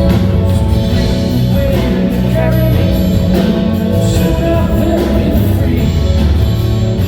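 Live band playing a soft-rock ballad, with guitar and a singing voice.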